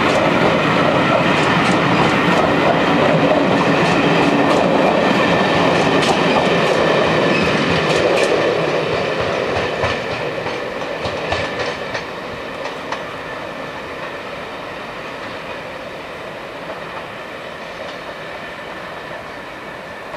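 A rake of empty passenger coaches rolling past close by, the wheels clattering over the rail joints. From about eight seconds in it fades steadily as the train draws away, with a few last clicks.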